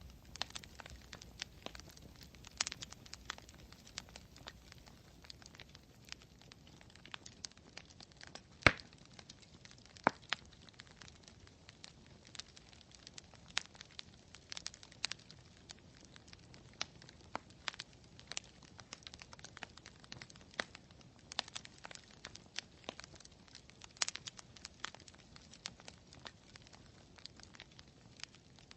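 Campfire crackling: irregular sharp pops and snaps of burning wood over a faint steady hiss, with one louder pop about a third of the way through.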